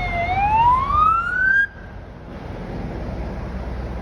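Emergency vehicle siren wailing, its pitch sliding down and then back up before cutting off abruptly about a second and a half in. A steady low engine rumble runs underneath and continues after the siren stops.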